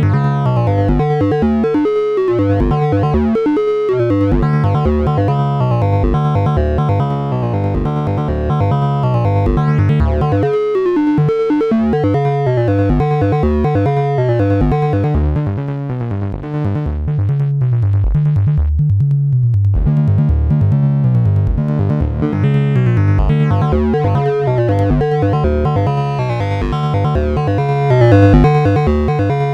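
Synthesizer jam from a Behringer Neutron and a Donner B1 bass synthesizer: a repeating sequenced bass line with gliding notes under layered synth parts. The treble drops away for a few seconds around the middle, then opens up again.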